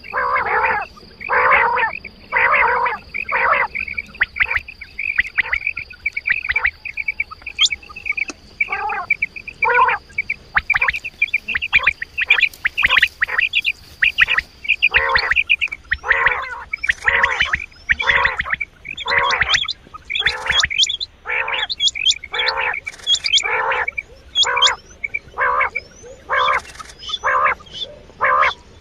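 Recorded quail calls played as a hunting lure: short raspy calls repeated about once a second with a few short gaps. A steady high, thin tone runs beneath them for the first half.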